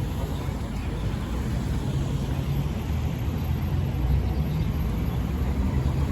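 Street traffic ambience: a steady low rumble of passing vehicles with an even wash of road noise.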